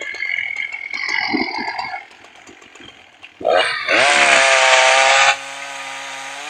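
Chainsaw revving hard about three and a half seconds in, then dropping back to a steady, lower run.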